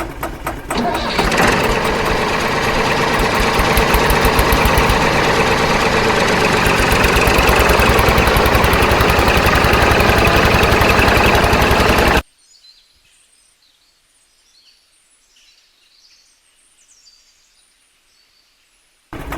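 The small motor of a DIY miniature tractor running with a fast, even rattle, then cutting off suddenly about twelve seconds in. Faint bird chirps follow in the quiet until the motor comes back right at the end.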